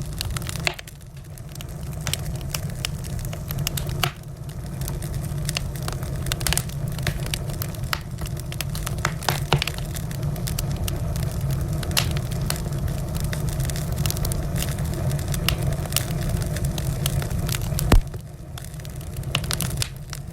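Wood fire in a fireplace crackling, with irregular sharp pops and snaps over a steady low rumble of the flames; one loud pop near the end.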